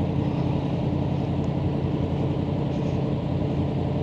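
Yamaha Tracer 900's three-cylinder engine idling steadily, a constant even note with no revving.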